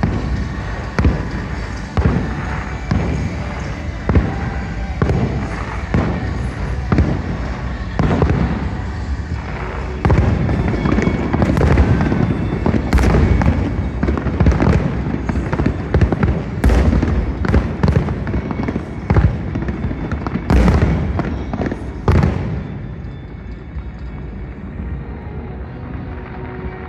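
Fireworks bursting in a rapid series of booms and crackles, densest through the middle, with music playing underneath. The bursts stop about 22 seconds in, leaving the music.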